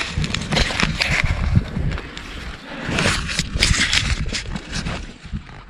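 Footsteps and rustling, crackling brush as someone pushes through dry grass and scrub cover, in short irregular strokes.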